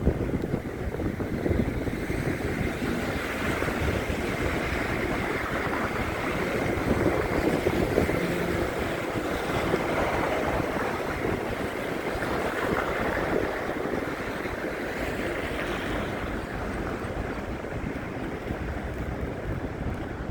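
Wind rushing and buffeting across a phone's microphone in a snowstorm, a steady noise that swells a little midway and eases near the end.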